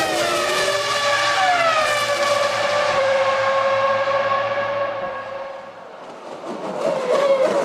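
Formula One cars' V10 engines at high revs: the pitch falls over the first two seconds, then holds steady. The sound fades away about six seconds in before another car's engine comes in, rising and falling.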